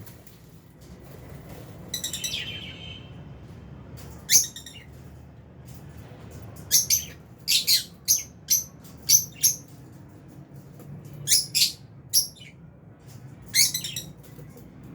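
Lovebirds chirping: short, sharp, high-pitched calls in small clusters, scattered with pauses between, over a faint low hum.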